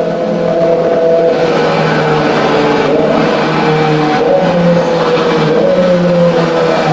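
Kawasaki ZX25R's inline-four engine running through an aftermarket exhaust, loud and steady, its pitch wavering gently up and down with small changes in revs.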